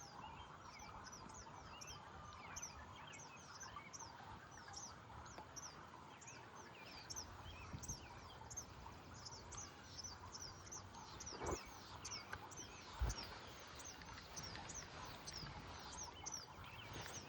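Birds chirping over quiet outdoor background noise: short, high chirps repeating many times. Two soft thumps come about two-thirds of the way through.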